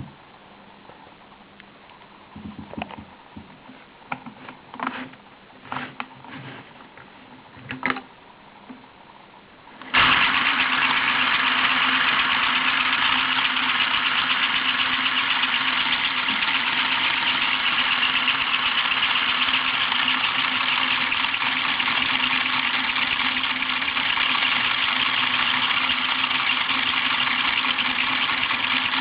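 Lego four-cylinder inline model engine driven by a Power Functions electric motor. There are a few light plastic clicks, then about ten seconds in the motor switches on suddenly and the plastic pistons and crankshaft run with a steady whir and a constant hum.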